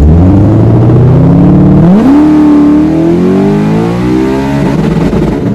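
Drag car's engine accelerating hard down the strip, its pitch climbing steadily, jumping up sharply about two seconds in, then climbing more slowly.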